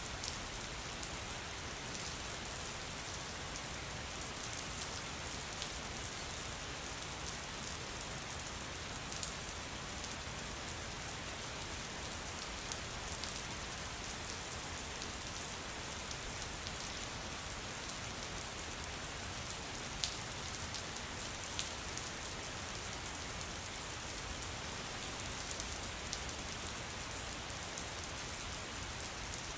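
Steady rain falling: an even hiss with scattered sharper drop ticks, steady in strength throughout.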